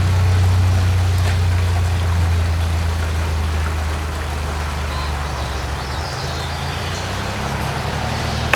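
Old Ford N-series tractor's four-cylinder engine idling steadily, a constant low hum that eases slightly a few seconds in.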